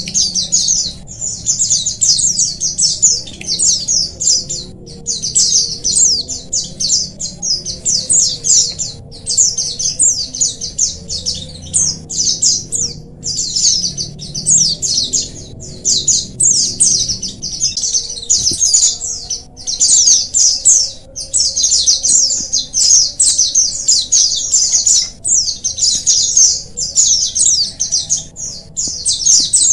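A colony of white-eyes (pleci) chirping together: a dense, unbroken stream of rapid, high-pitched twittering notes with a few brief pauses.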